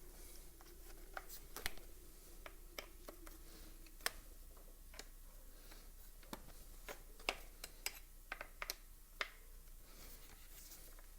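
Irregular light clicks and taps of hand tools and bolts on a Makita whipper snipper's clutch housing as its bolts are undone.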